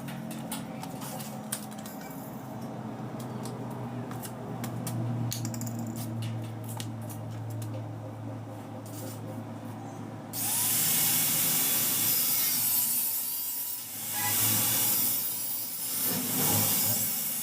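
A steady low hum with scattered light clicks. About ten seconds in, a power tool starts abruptly with a loud hiss, which swells and dips several times.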